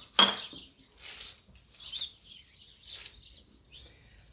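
Birds chirping repeatedly in the background, with one sharp knock just after the start.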